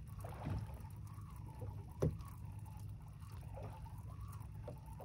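Water lapping and dripping against the side of a small fishing boat over a steady low rumble, with a few small knocks and one sharp knock about two seconds in.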